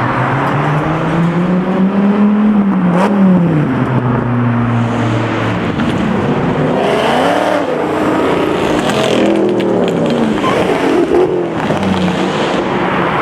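Sports car engines revving and accelerating away. The pitch climbs for the first couple of seconds and then falls, and from about seven seconds in more than one engine is heard rising and falling together.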